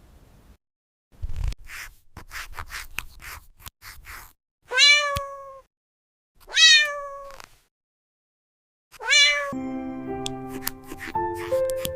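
A cat meowing three times, each call rising and then falling in pitch, about two seconds apart, after a run of light clicks and scratching. Music with sustained notes comes in near the end.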